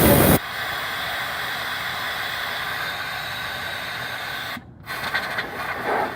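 Compressed air from an air-compressor blow nozzle hissing into the brush openings of a Blizzard mixer motor, blowing carbon dust out of the armature. A loud blast in the first half second gives way to a steady, quieter hiss that cuts out briefly about four and a half seconds in.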